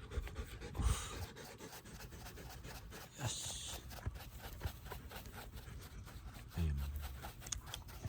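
A dog panting, with two short hissing scrapes, one about a second in and one a little past three seconds.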